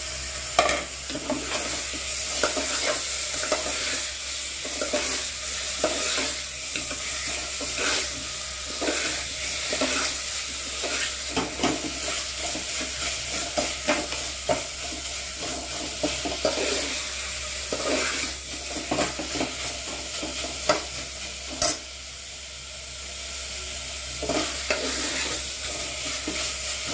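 Chicken pieces sizzling as they fry in hot oil in an aluminium pressure cooker, a steel spoon stirring them and scraping and clinking against the pot over and over.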